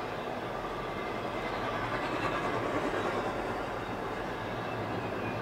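CSX double-stack intermodal freight train's container-laden well cars rolling past: a steady noise of steel wheels running on the rails.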